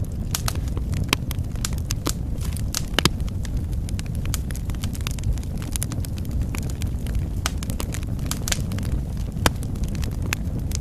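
Wood fire burning in a fireplace: a steady low rumble of the flames with irregular crackles and sharp pops of burning logs, a few louder pops among them.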